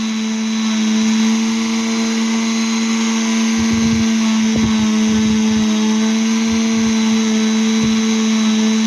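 Electric polisher running steadily with a pad spinning on a meteorite slice, giving a loud even motor hum, with a few faint low knocks about halfway through.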